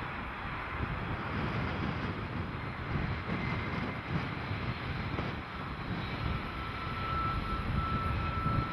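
Steady rumble of a train on Cajon Pass, heard from trackside. A thin, high steady tone joins about seven seconds in.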